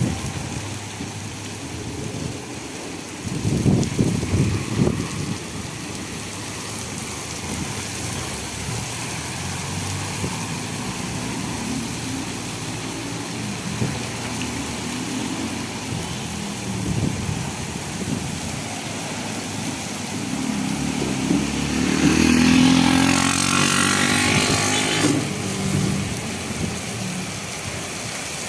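A motor vehicle's engine over a steady wash of rain and wet-road noise. About three-quarters of the way through a vehicle passes close by, its engine pitch bending and tyre hiss on the wet road rising, then falling away.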